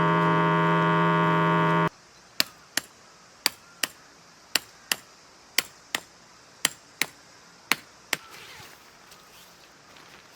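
Electric air pump running with a steady loud buzz, cutting off suddenly about two seconds in. It is followed by sharp knocks in pairs, about one pair a second, for some six seconds.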